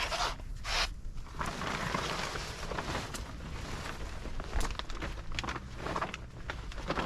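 Camp gear being handled and packed: irregular rustling with scattered sharp clicks and knocks.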